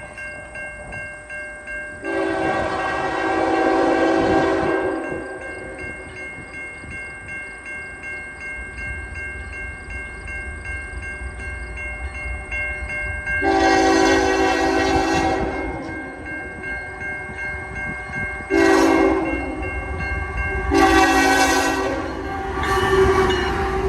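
Five-chime K5HL horn on a CN GE GEVO locomotive sounding long, long, short, long blasts, the grade-crossing signal, as the train approaches with a rising low rumble.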